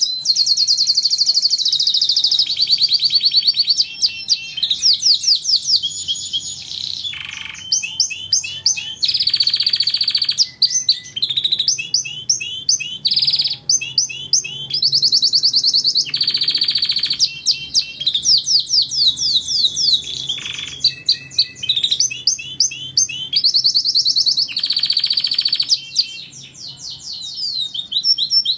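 Domestic canary singing a long, unbroken song of fast trills and rapidly repeated notes, switching to a new phrase every second or two.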